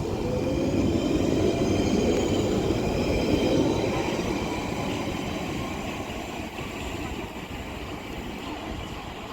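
London Underground Central Line 1992 stock train pulling away from the platform. Its traction motors whine, rising in pitch as it accelerates over the first few seconds, and the rumble fades as it moves off.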